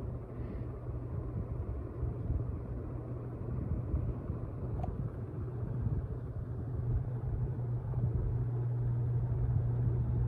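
Honeywell Belmar ceiling fan running, its motor giving a steady low hum over a rumble of moving air. The hum grows louder near the end.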